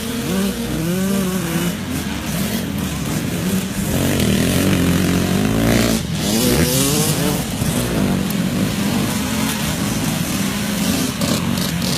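Several vintage motocross dirt bikes racing, their engines revving up and down through the gears in overlapping rising and falling pitches, getting louder about four seconds in.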